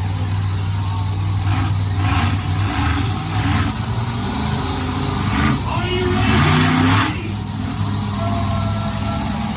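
Monster truck engine running loudly, with surges of noise; the biggest comes about six to seven seconds in.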